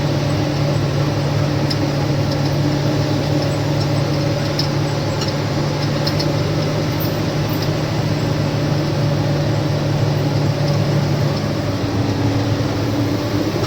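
Lorry's diesel engine running steadily in gear, heard from inside the cab, holding the truck back on a downhill stretch. Its tone changes about twelve seconds in.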